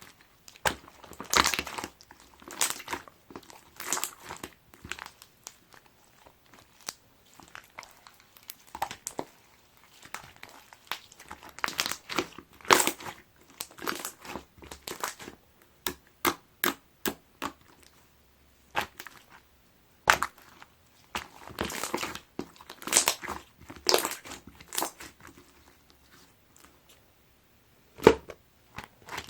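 Clear slime mixed with ice being squeezed and pressed by hand: irregular crackling, crunching pops and sharp clicks, with ice knocking against the desk.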